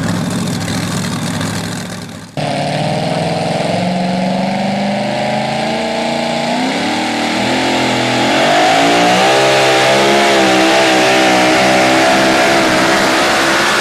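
Two-wheel-drive pulling truck's engine. One engine sound fades and breaks off about two seconds in, and another starts at once, runs steady, then revs up in pitch and holds high with a wavering note under load.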